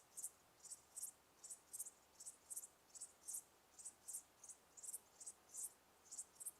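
A cricket chirping faintly and steadily: short high chirps, often in pairs, about three a second.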